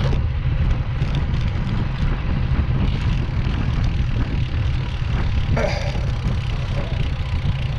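Steady rumble of a motorcycle riding along, engine running with wind noise on the microphone.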